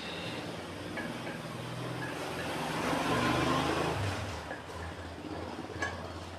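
A motor vehicle passing by, its engine and road noise swelling to a peak about halfway through and then fading away.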